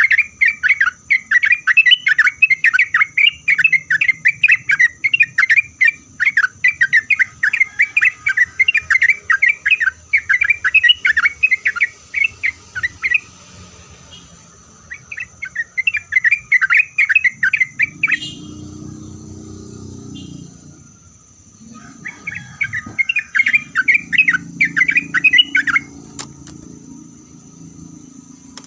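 Yellow-vented bulbul (trucuk) singing loud, rapid chattering phrases in three long runs, with gaps between them. A steady high whine runs behind it, and a low rumble comes in during the second gap and under the last run.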